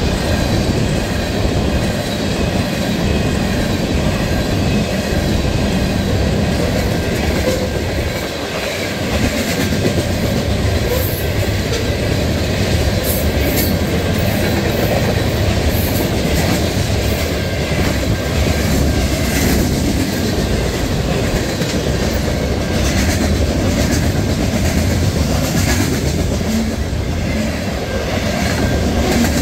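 A freight train of gondolas, covered hoppers and tank cars rolling past: a loud, steady rumble of steel wheels on rail with clickety-clack over the rail joints and occasional brief wheel squeals.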